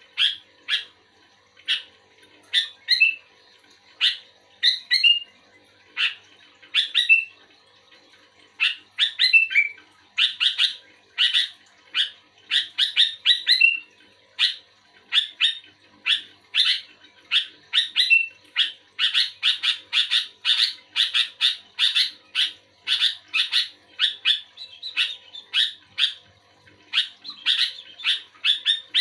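Sooty-headed bulbul (kutilang) singing actively: a long run of short, bright chirping notes and phrases, sparse at first and coming thick and fast from about ten seconds in.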